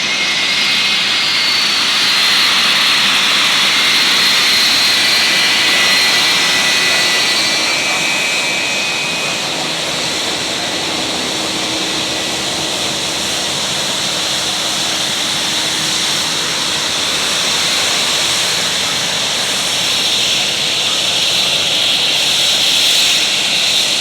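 Jet airliner's engines running steadily: a loud, continuous rush with a high, steady whine on top, swelling gently in loudness.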